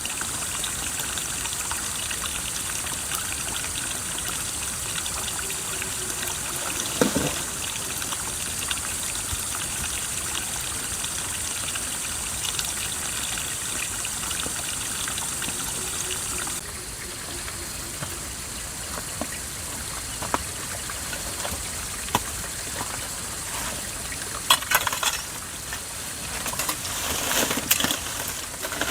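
Running water, a steady splashing hiss that becomes quieter suddenly about two-thirds of the way through, followed by a few sharp clicks and knocks near the end.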